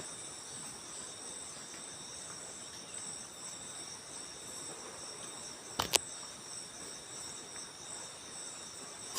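Steady high-pitched chorus of insects calling, with a single sharp click about six seconds in.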